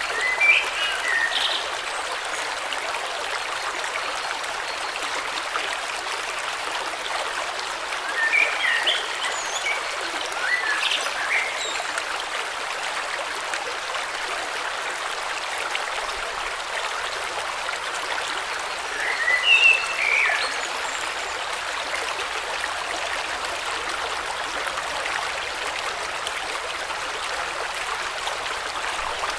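River water flowing steadily over stones, an even rushing sound. Short clusters of chirping bird calls rise above it near the start, around a third of the way in, and again about two thirds of the way in.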